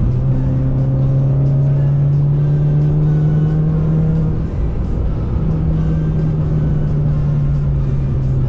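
Citroën C2 VTS's 1.6-litre four-cylinder petrol engine pulling under acceleration, its note rising slowly. About four and a half seconds in the note breaks off briefly for a gear change, then the engine pulls steadily again.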